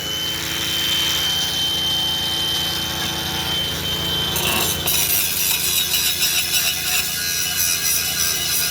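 Steady, harsh metalworking noise from tools working on a steel bumper, with a thin high whine through the first half that stops about halfway.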